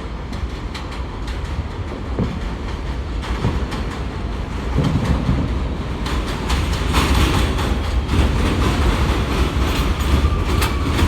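New York City Transit R160B subway train with Siemens propulsion running through the station, its wheels clacking over the rail joints with a steady rumble. It grows louder about six seconds in as it comes closer.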